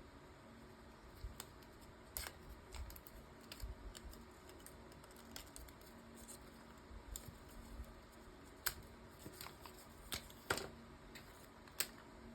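Light, scattered clicks and taps with faint rustling as small paper die-cuts and glue dots are handled at a craft table, a few sharper clicks standing out now and then.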